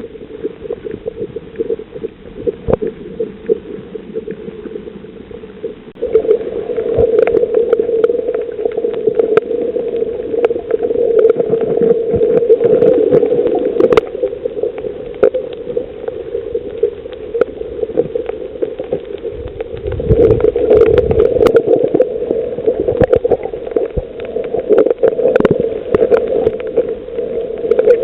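Underwater ambience on a coral reef: a steady low hum overlaid with many sharp clicks and crackles, stepping up in loudness about six seconds in.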